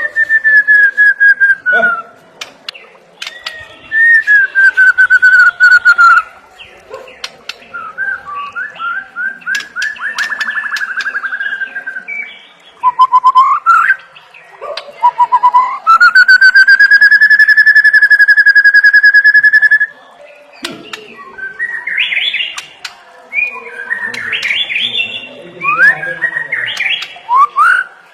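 White-rumped shama singing a loud, varied song of whistles: several falling whistled notes, quick rapid trills, a long held whistle of about four seconds from about 16 seconds in, then fast, jumbled chattering phrases.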